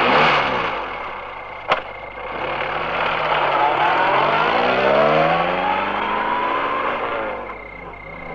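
Car engine sound effect: the engine running, a sharp click about two seconds in, then revving with its pitch rising and falling as the car pulls away, dying down near the end.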